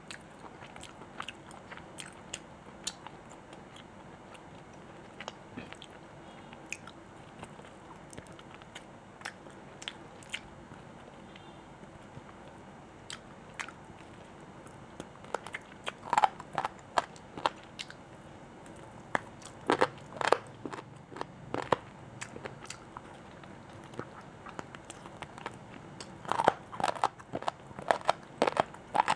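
Close-miked eating sounds: chewing with soft mouth clicks, building into louder crunchy bites in clusters about halfway through and again near the end.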